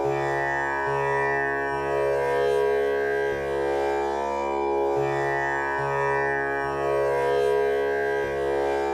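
Tanpura drone tuned to C# for a male voice, its strings plucked in a steady repeating cycle of about four plucks every three seconds, with a rich buzzing halo of overtones held between plucks.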